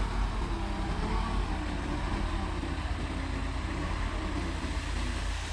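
Mitsubishi bulldozer's diesel engine running steadily with a low, even rumble.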